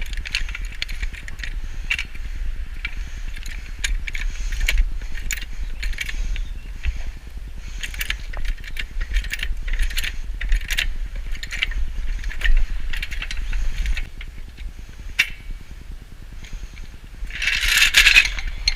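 Metal hand tools clicking, knocking and scraping in irregular bursts, over a steady low rumble, with a louder scraping rush near the end.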